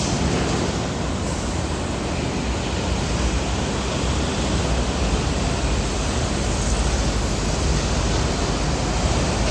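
Steady noise of heavy road traffic: the deep rumble of truck engines and tyres on the road.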